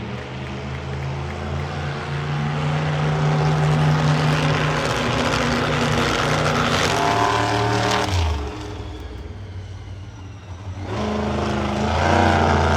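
Monster truck engine running hard under throttle, its note building over the first few seconds. It drops off sharply about eight seconds in, then revs back up near the end.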